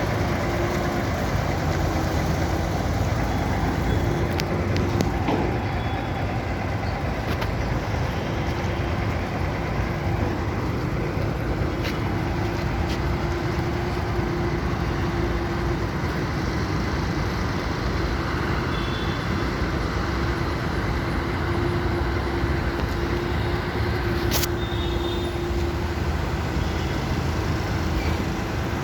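Crane engine running steadily, with a steady low hum that drops out and comes back a few times.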